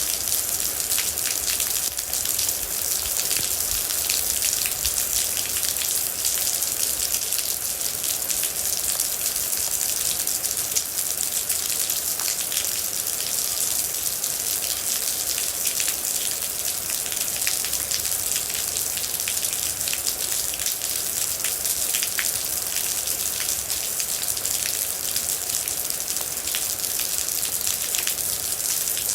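Steady heavy rain: a dense hiss with many single drops pattering close by.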